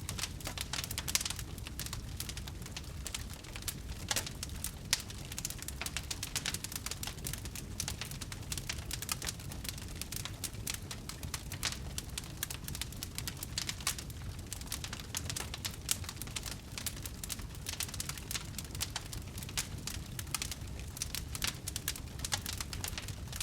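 Wood fire burning, with dense, irregular crackles and pops over a steady low rumble of the flames.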